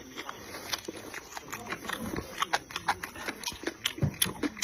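A person eating with rapid, wet chewing and lip-smacking clicks, the mouth noises of a mukbang meal of pork bones and rice noodles.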